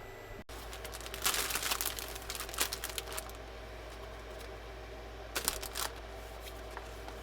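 Clicking and rustling from things being handled, in a busy run of about two seconds and then a short burst later, over a steady low hum.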